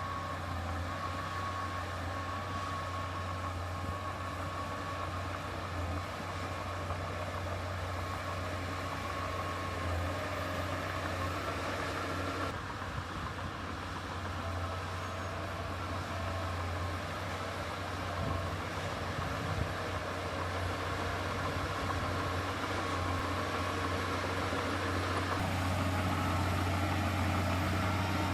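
Heavy diesel earthmoving machine running steadily, a constant low engine hum with a faint higher whine above it. The sound shifts abruptly twice, about twelve seconds in and again near the end.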